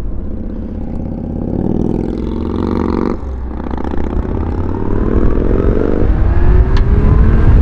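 Motorcycle engine accelerating, its pitch rising, dropping briefly about three seconds in as it shifts gear, then rising steadily again.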